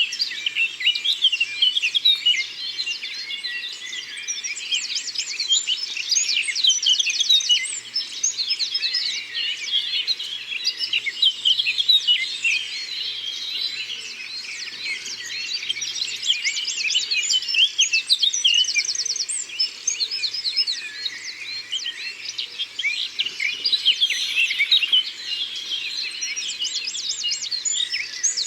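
A dawn-chorus-like mix of many songbirds singing and chirping together in a forest, with fast trills repeating every few seconds among the chirps.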